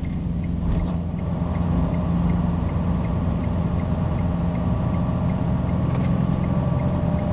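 Freightliner Cascadia box truck driving, heard from inside the cab: a steady engine and road drone, with a light, regular ticking about twice a second.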